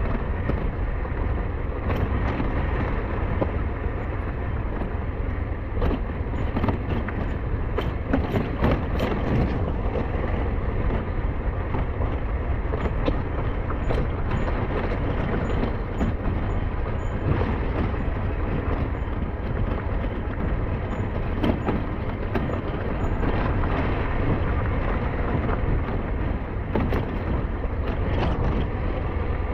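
SYM NH T 200 motorcycle being ridden, its engine running steadily under a constant rush of wind and deep rumble, with scattered knocks and rattles from the rough mountain forest road.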